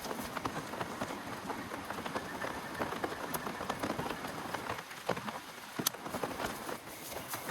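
Heavy rain falling steadily, a dense patter of drops hitting a surface, with one sharper drop hit about six seconds in.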